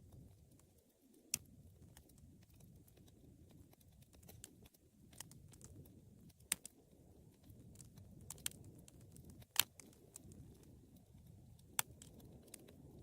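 Wood fire burning in a fireplace: a low steady rush of flame with scattered sharp crackles and pops from the burning wood. The loudest pops come about a second in, midway and near the end.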